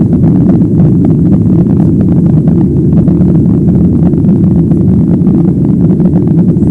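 Airliner cabin noise during takeoff: the engines and airflow make a loud, steady low rumble heard from inside the cabin.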